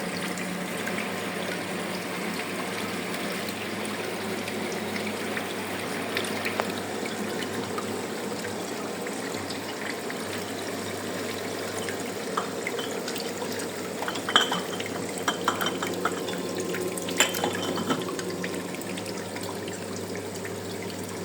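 Fastwasher 24 dishwasher running a wash cycle: a steady pump hum under continuous rushing, splashing water. A few sharp clinks come about two thirds of the way through.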